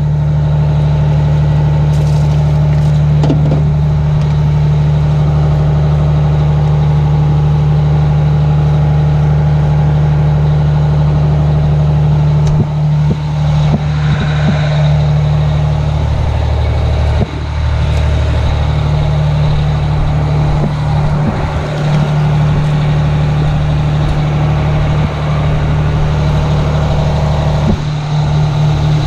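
Detroit Diesel engine of a 1980 Howe fire truck running steadily under pump load, with a loud, even low drone. About halfway through, its note shifts and the level dips a few times.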